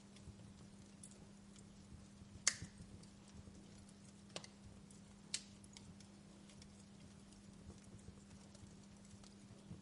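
Wood fire crackling with sparse, sharp pops, the loudest about two and a half seconds in, over a faint steady low hum.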